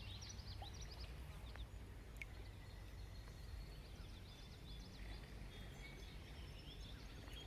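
Faint, scattered chirps of small birds over a low, steady background rumble.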